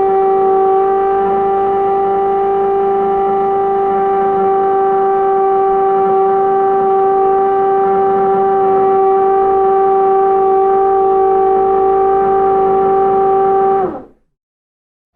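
Train horn sounding one long, steady, unbroken blast that cuts off about 14 seconds in.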